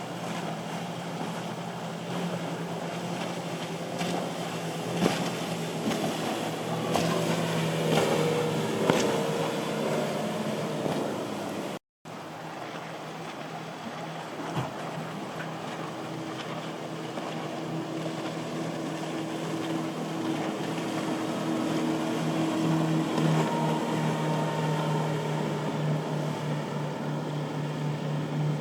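Motorboat engines running in the inlet, a steady low drone over wind and water noise. The sound cuts out completely for a moment partway through, and a boat engine grows louder near the end.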